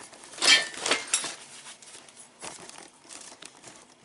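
Packing material crinkling and rustling as hands dig through a shipping box. The loudest rustle comes about half a second to a second in, followed by smaller scattered crackles.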